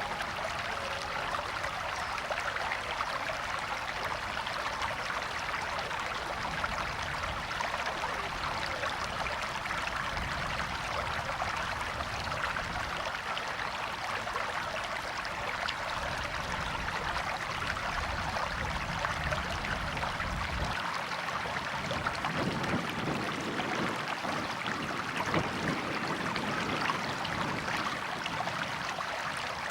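River or stream water flowing and trickling steadily.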